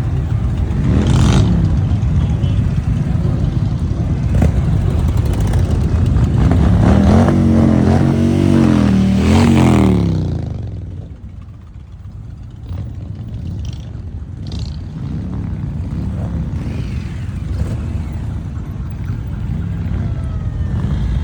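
Motorcycle engines running and revving, with the pitch rising and falling several times before the sound drops away about halfway through, then steadier, quieter engine running.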